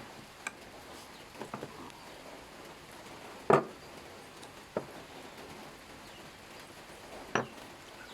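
Five sharp clicks and knocks at uneven spacing, the loudest about three and a half seconds in, over a steady faint hiss.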